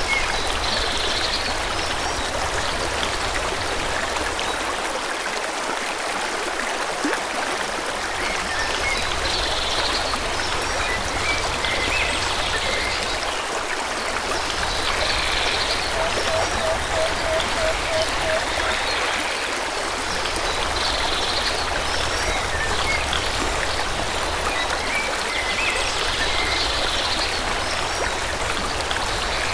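Steady rush of a flowing forest stream, with birds chirping short song phrases every five or six seconds. A little past halfway comes a run of about eight quick, lower repeated notes.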